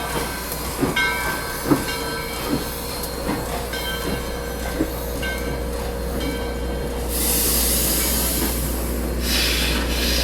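Train running on track: regular clicks about every 0.8 seconds, each with a brief high ringing squeal, over a steady low rumble. From about seven seconds in, a loud hiss starts, eases briefly, then returns.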